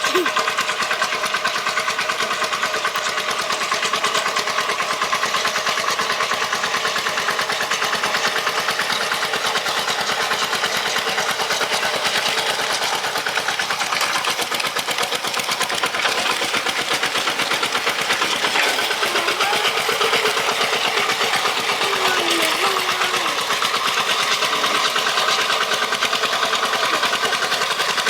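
Tractor's motor running steadily under load with a fast, even chatter, held at a constant level without revving up or down.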